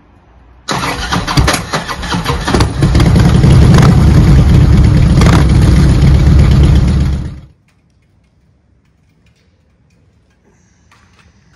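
A motorcycle engine starts with a sudden burst and runs loud, growing louder a couple of seconds in, then cuts off after about seven seconds, leaving only faint background sound.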